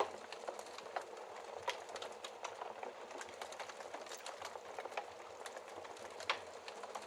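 Wood fire burning in a fireplace: a steady hiss of flames with frequent sharp crackles and pops from the logs, a few louder pops standing out, at the very start and about six seconds in.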